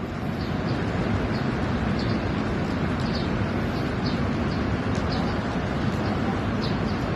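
Steady roar of rushing floodwater, with faint short chirps recurring high above it.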